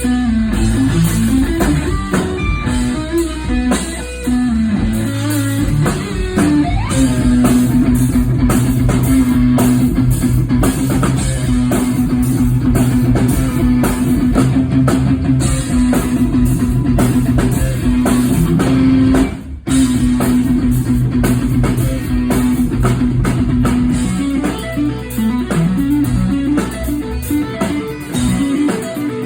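Live rock band with electric guitar, bass guitar and drums playing loudly, with sustained, heavy low guitar notes; the music cuts out for a split second about twenty seconds in.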